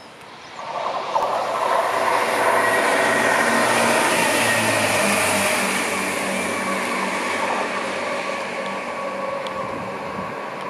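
A diesel train passing: engine note and wheel-on-rail rumble swell up about a second in, peak, then slowly fade.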